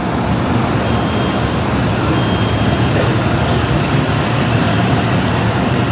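Steady, loud rumble and hiss of a Shinkansen train at the station platform.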